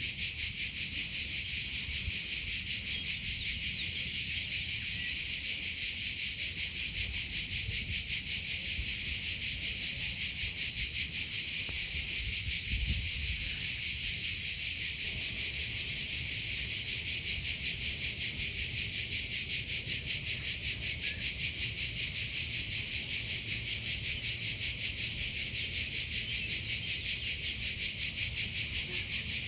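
Crickets chirping without pause, a steady high pulsing trill, with a faint low rumble underneath.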